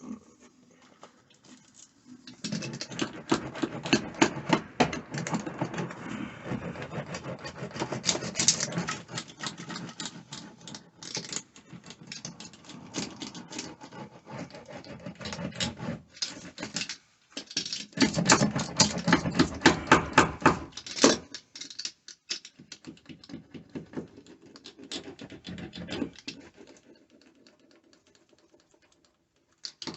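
Rapid, irregular clicking and crackling, like foil-backed sound-deadening mat being handled and pressed into place, in several stretches with short pauses and the loudest stretch about two-thirds of the way through.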